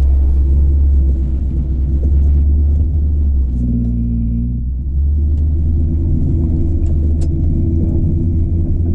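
Small-block Chevy 350 V8 in an Isuzu NPR cabover running steadily through Flowmaster 40 mufflers with no catalytic converters, a deep steady exhaust note. The tone shifts briefly about four seconds in.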